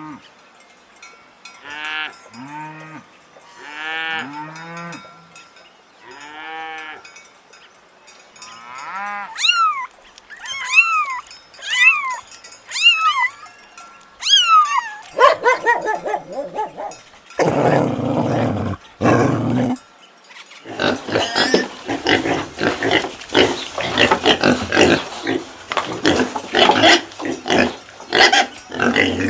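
A run of different animal calls one after another: short repeated pitched calls first, then higher calls that glide up and down, then louder, harsher calls through the second half.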